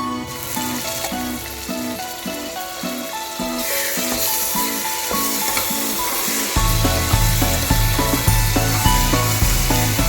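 Food sizzling as it fries in hot oil, a steady hiss that grows stronger about four seconds in. Background music plays over it, and a heavier beat joins near the end.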